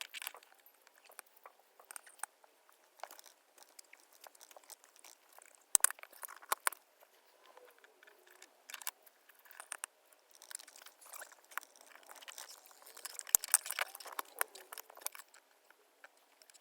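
Irregular clicks, taps and light scraping of hands working on small mechanical parts, with a louder cluster of knocks about six seconds in and a busier stretch in the second half.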